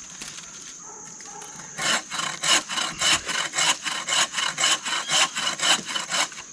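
Hand saw cutting through wood in quick, even back-and-forth strokes, about four a second. It starts about two seconds in and stops just before the end.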